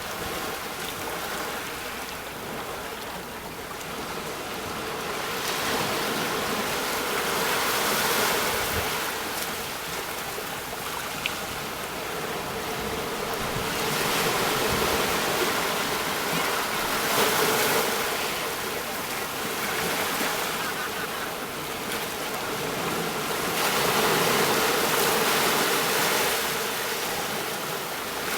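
Sea waves breaking and washing up on the shore, a continuous surge of surf that swells and ebbs every few seconds.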